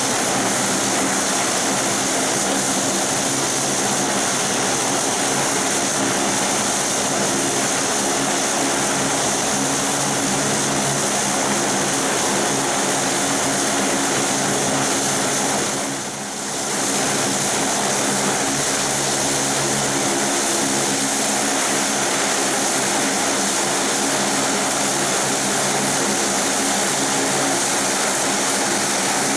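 Saab 340B's two turboprop engines running steadily: a propeller drone with a thin, high-pitched turbine whine above it. The sound dips briefly about halfway through.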